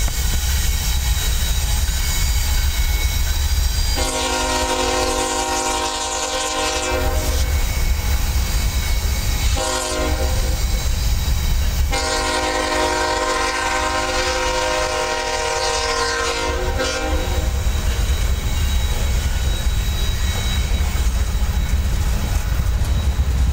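Freight cars rolling past close by with a steady low rumble and wheel clacking, while the distant lead locomotive, a Norfolk Southern ES44AC, sounds its multi-chime horn. There is a long blast about four seconds in, a short one near ten seconds, and another long one from about twelve to seventeen seconds: the close of the long-long-short-long grade-crossing signal.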